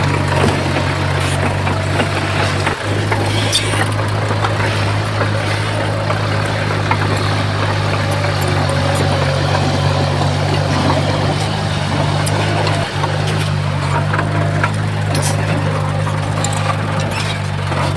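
Large diesel engine of heavy earthmoving equipment running steadily at a constant speed, with occasional light clanks.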